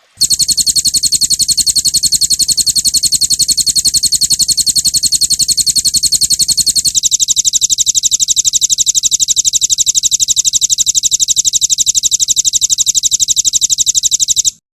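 Recorded songbird trill: a rapid roll of evenly repeated high notes, the kind of 'roll tembak' phrase used to train caged songbirds. The note shifts slightly about halfway through, and the trill stops abruptly near the end.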